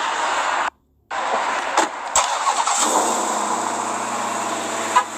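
Car engine starting and settling into a steady idle about three seconds in, after a couple of sharp clicks.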